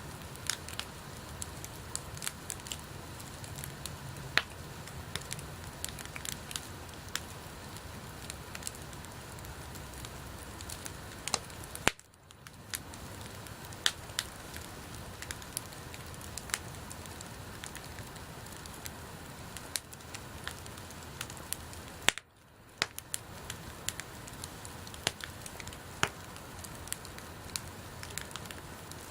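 Wood bonfire burning: a steady hiss with frequent sharp crackles and pops from the burning wood. The sound cuts out briefly twice.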